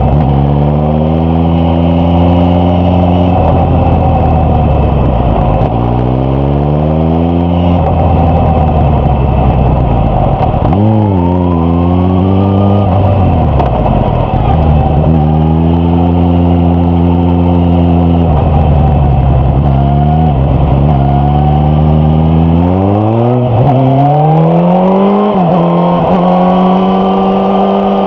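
Suzuki GSX-S1000F inline-four motorcycle engine and exhaust under riding load. The revs climb under acceleration, hold steady, and fall away when the throttle is closed, several times over. Near the end the pitch climbs in short steps broken by brief drops, like quick gear changes.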